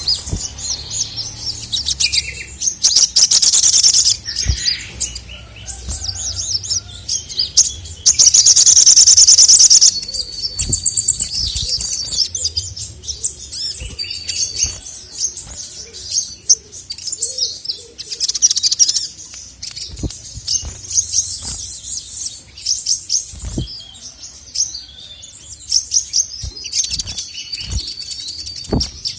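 Male sogon (sogok ontong sunbird) singing at full volume, a rapid run of high chirps and trills. A loud, fast rattling trill comes about three seconds in and again at about eight seconds.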